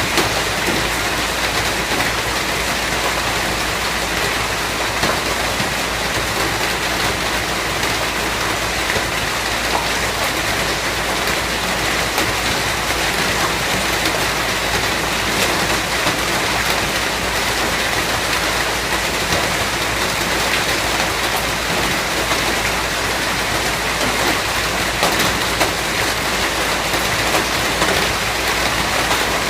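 Steady rain falling, an even hiss of many drops with faint patters of individual drops hitting a surface.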